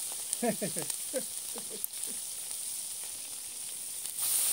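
Dried fish sizzling in hot oil in a frying pan over an open wood fire: a steady hiss that grows suddenly louder about four seconds in.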